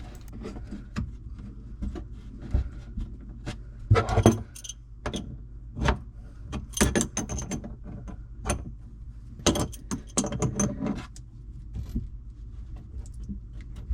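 Scattered metallic clinks, knocks and small rattles of handling the faucet's cold water supply line and screwing its fitting onto the shutoff valve under a sink, over a steady low hum.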